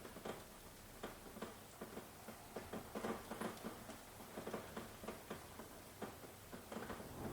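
Rain falling, with irregular close drops tapping and pattering over a faint steady hiss.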